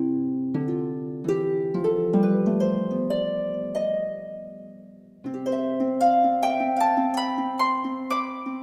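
Background music: a harp playing plucked arpeggiated notes over a held low chord, fading out about four seconds in before a new rising phrase begins at about five seconds.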